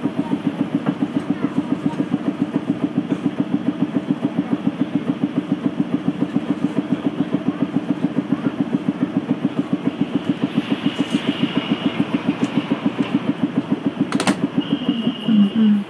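A streetcar's air compressor chugging in a fast, even rhythm of about five or six beats a second. It falters and changes pitch near the end, and a faint high tone sounds twice in the second half.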